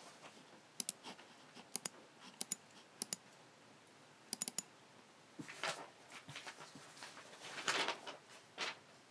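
Logicool G7 computer mouse buttons clicking: crisp clicks, mostly quick doubles and a triple, over the first half. Softer, longer scraping sounds follow in the second half, the loudest a little under a second before the end.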